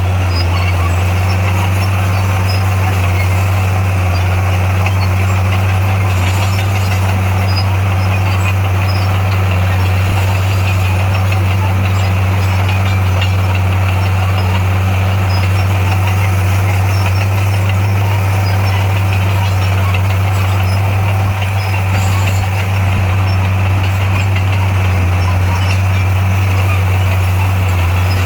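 D58A bulldozer's diesel engine running at a steady, unchanging pitch: a loud continuous low drone with mechanical clatter over it.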